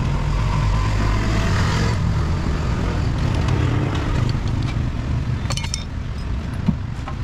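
A motor vehicle engine running steadily with a low rumble, easing off slightly toward the end, with a few sharp clicks about five and a half seconds in.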